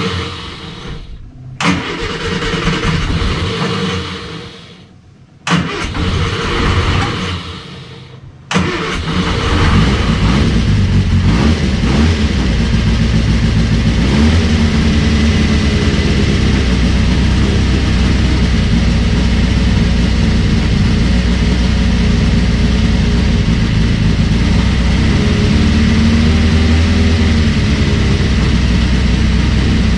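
Reliant 750cc four-cylinder race engine cranked on the starter in short bursts, then catching about eight and a half seconds in and running steadily with small rises and falls in revs. This is the first start after fitting a new distributor, coil, plugs and leads.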